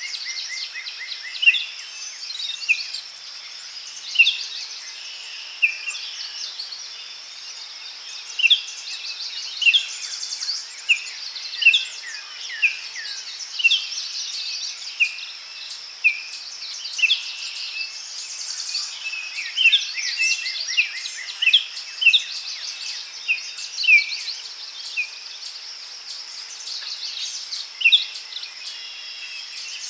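Daytime forest ambience: several small birds calling and chirping over and over, with short high sweeping notes, over a steady high-pitched hiss that may be insects.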